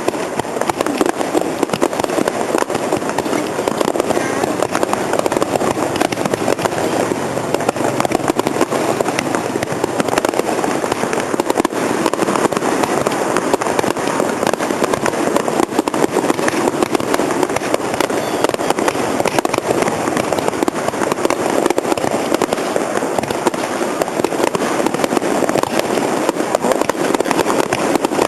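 Fireworks display going off as a dense, continuous barrage: many overlapping pops and crackles with no break.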